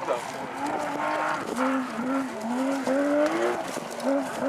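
Porsche rally car's flat-six engine revving up and down in quick repeated swells, as the car is worked through a stage.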